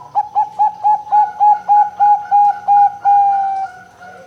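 Zebra dove (perkutut) cooing: a quick run of about a dozen short, clipped notes at about four a second, ending on a longer drawn-out note that sags slightly in pitch and fades.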